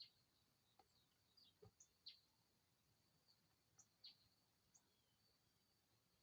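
Faint bird chirps: short, scattered high calls a few per second, over a faint steady high tone.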